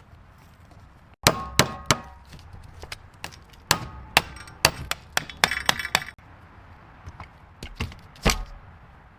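A quick run of sharp metal clanks and knocks, some ringing briefly, then two more knocks near the end.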